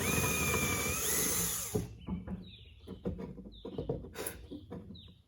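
Power drill boring a hole into a block of wood: the motor runs steadily with a whine for about two seconds, then stops and is given several short trigger bursts that wind down each time.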